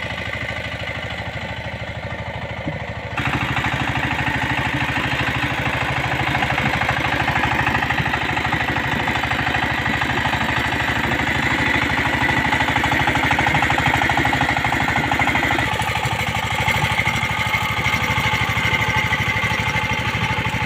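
Tractor engine running steadily with a fast even beat, stepping up suddenly in loudness about three seconds in.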